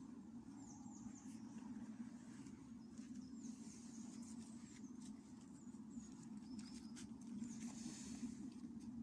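Faint calls of small birds: short high chirps that fall in pitch, in runs of three or four, repeated several times over a steady low outdoor hum.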